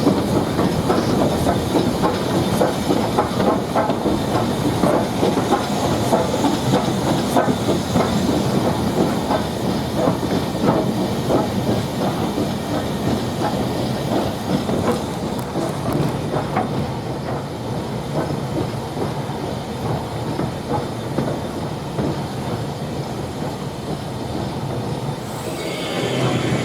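Steam train running on the line: a steady rumble with many quick clicks of wheels over the rails and a hiss of steam.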